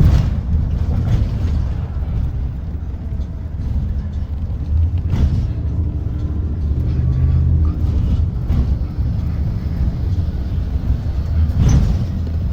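Blue Bird Vision propane school bus running and moving: a steady low engine and road rumble, with short knocks or rattles right at the start, about five seconds in and near the end.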